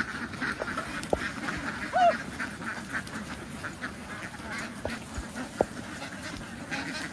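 A large flock of domestic ducks quacking continuously, many calls overlapping into a dense chatter, with a few sharp knocks.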